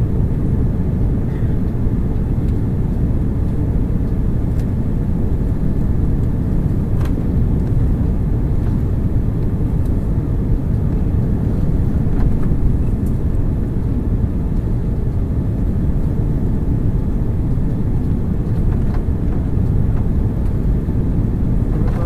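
Steady cabin noise inside an Airbus A330-300 airliner in flight, a low, even rumble of engines and airflow with a few faint ticks.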